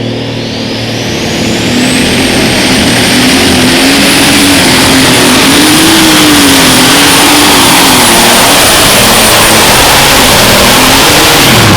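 Turbocharged pulling tractor engine at full throttle under load, with a high turbo whine that climbs over the first two seconds and then holds. The engine note wavers up and down and falls away near the end.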